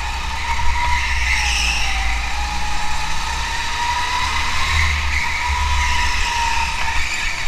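Car engine running, its pitch slowly rising and falling, over a heavy steady low rumble.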